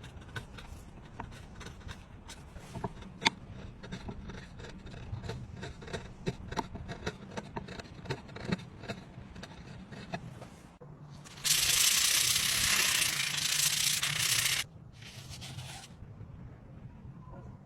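Hand work on wood: scattered taps and clicks with rubbing and scraping, one sharper tap about three seconds in. A little past eleven seconds comes a loud, steady hiss lasting about three seconds, then a shorter, fainter one.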